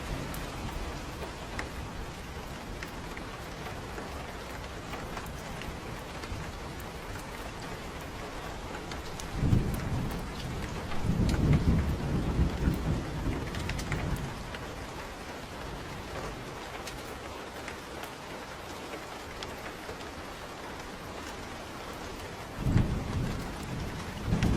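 Steady rain falling, with low rolls of thunder rumbling twice: a longer roll about halfway through and another starting near the end.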